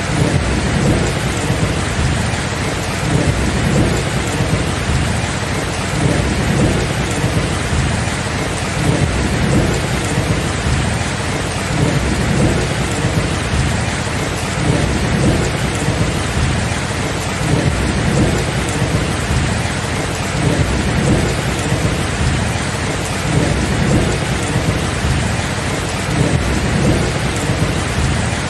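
Steady heavy rain in a thunderstorm, with low, rolling thunder rumbling underneath and no sharp claps.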